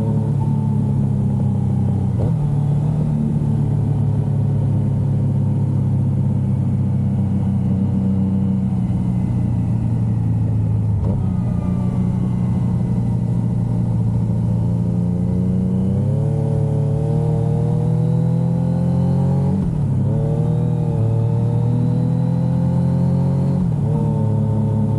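Yamaha XSR900's inline three-cylinder engine running under way on the road, heard from the bike itself. Revs hold fairly steady at first, then climb in the second half, broken by several short dips in pitch at gear changes.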